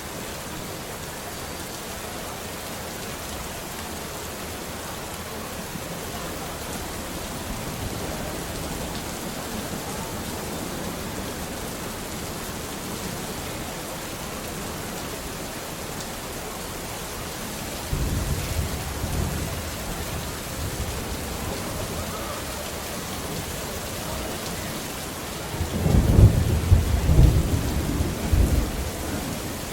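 Steady rain falling, with thunder: a low rumble breaks in suddenly about two-thirds of the way through and fades, then a louder, longer rumble rolls near the end.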